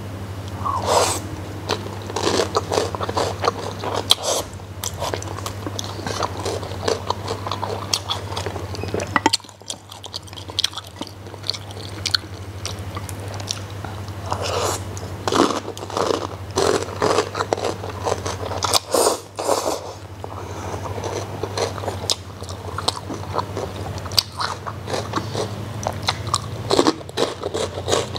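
Close-up eating sounds: crispy fried pork skin crunching between the teeth and noodles being chewed, in irregular bites throughout, over a steady low hum.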